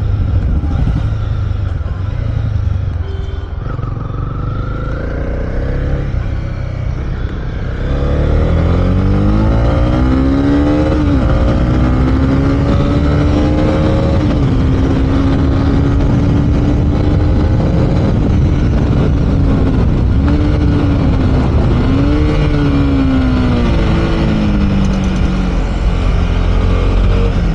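Honda CB300R's single-cylinder engine heard from the saddle, running light at first. About eight seconds in, the throttle opens and the revs climb in rising sweeps, then hold high. Later they dip and rise again before easing off near the end, with a low rumble of wind and road underneath.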